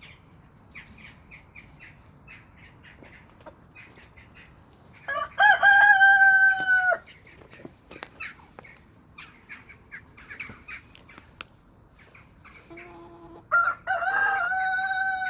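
Two rooster crows, each about two seconds long, one about five seconds in and one near the end, with hens clucking softly between them.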